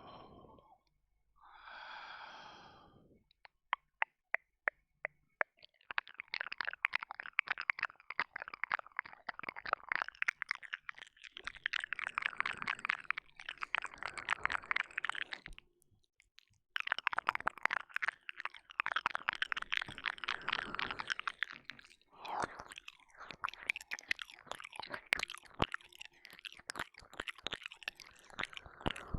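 Close-miked wet mouth sounds on a binaural dummy-ear microphone: licking, smacking and kissing clicks. A breathy exhale comes about two seconds in, then a few separate clicks. Long runs of dense wet clicking follow, with a short pause about halfway, thinning to sparser clicks near the end.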